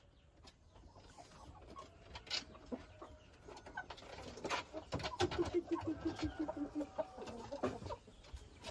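Chickens clucking, with a quick run of clucks, about six a second, a little past halfway, among a few sharp knocks.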